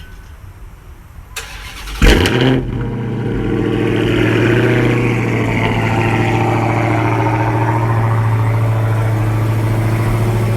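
Dodge Charger Hellcat's supercharged 6.2-litre V8 on a cold start: it fires about two seconds in with a brief loud flare of revs, then settles into a steady idle.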